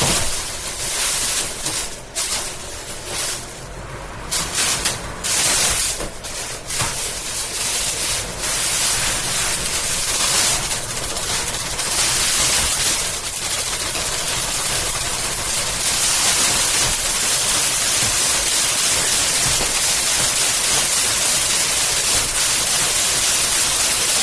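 Amazon Basics box fan running with a shredded plastic grocery bag caught in it: a loud rush of air with the bag fluttering and rattling. The sound is choppy and uneven for the first eight seconds or so, then settles into a steady rush.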